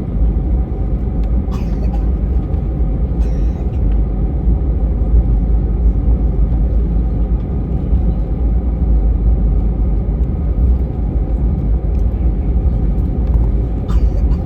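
Airbus A320 cabin noise: a steady, loud low rumble of the engines and airflow heard inside the passenger cabin.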